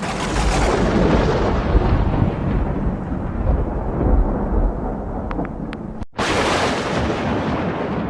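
Thunder rolling, its crackle slowly dying away; it cuts off abruptly about six seconds in and a new thunderclap starts sharply and fades.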